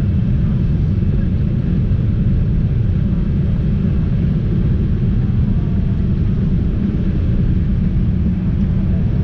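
Boeing 787-8 Dreamliner in flight: a steady low rumble of engine and airflow noise that stays even throughout.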